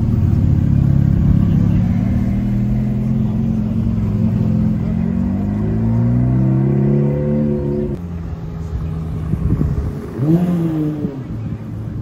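Ferrari V8 engine pulling away and accelerating, its revs climbing steadily for several seconds. The sound changes abruptly about eight seconds in, leaving quieter car engine noise with one short rev a couple of seconds later.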